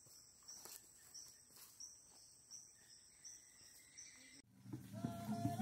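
Faint insects chirping: a steady high thin tone with a short chirp repeating about two to three times a second. About four and a half seconds in, it cuts off suddenly and louder music begins.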